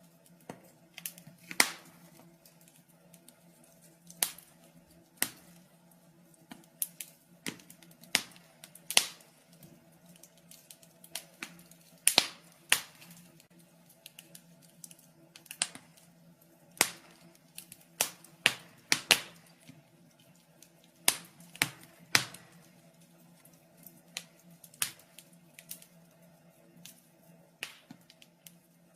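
Wood fire crackling in a fireplace: irregular sharp pops and snaps at uneven intervals, some louder than others, over a faint steady low hum.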